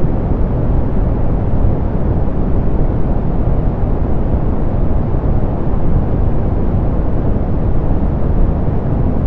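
Softened pink noise, a generated steady even hiss that is deep and muffled with little treble, and that never changes.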